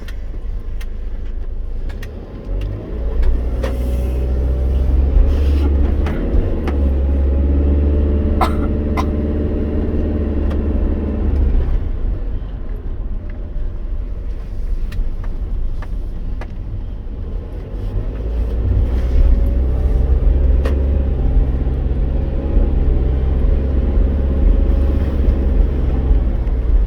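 Vehicle engine and road rumble heard from inside the cabin. The engine note rises as it speeds up about three seconds in, holds, and eases off; the same happens again from about eighteen seconds in. A few light clicks sound along the way.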